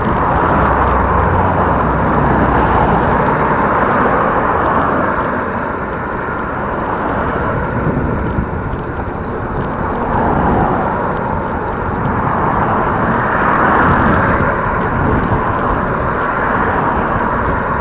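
Wind rushing over the microphone of a moving bicycle, with tyre noise from the road, swelling and easing a few times.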